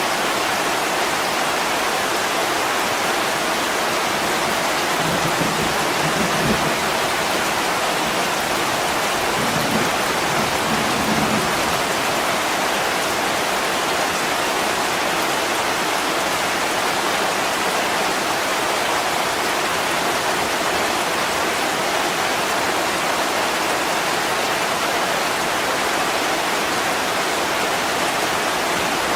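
Heavy rain pouring steadily against a window, an even hiss, with two brief low rumbles about six and ten seconds in.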